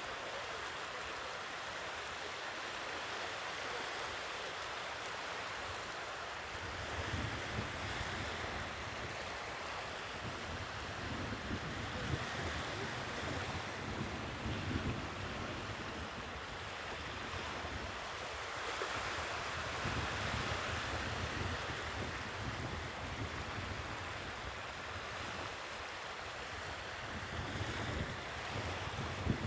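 Sea waves washing steadily onto the shore. From about seven seconds in, a low, uneven rumble of wind on the microphone joins the surf.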